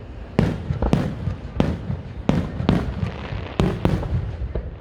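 Fireworks display: about seven aerial shell bursts banging in quick succession, each trailed by a low rumble.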